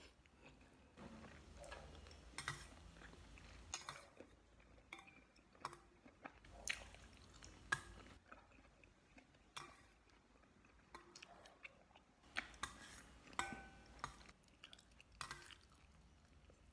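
A person chewing food, with scattered sharp clicks of metal chopsticks against a stainless steel bowl, a few of them ringing briefly.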